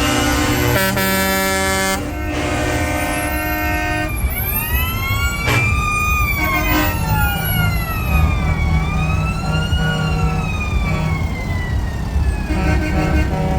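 Trucks passing in a parade: a multi-tone horn sounds steadily for the first few seconds, then a siren wails, sweeping up and down slowly, over the low rumble of the truck engines. Steady horn tones return near the end.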